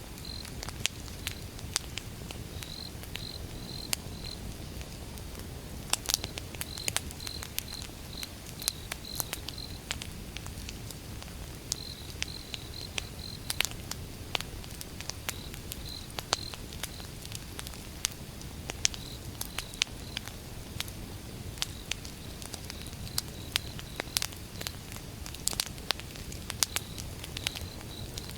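Campfire of burning firewood crackling, with sharp pops at irregular moments over a low steady rumble of the flames. A cricket chirps in short high-pitched runs, on and off.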